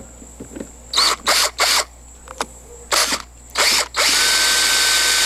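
Electric drill with a 9/64 bit drilling a pilot hole for a locking screw: several short trigger bursts, then a steady run with a constant whine from about four seconds in.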